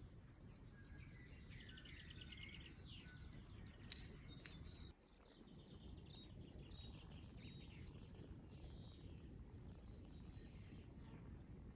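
Faint birdsong: several birds chirping and trilling, high and quick, over a low steady background hum of outdoor noise.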